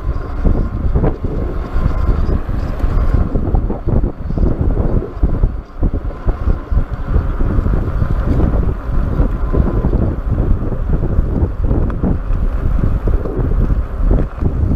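Wind buffeting the microphone of a rider on a moving electric bike, a loud fluttering rush with a faint steady whine underneath.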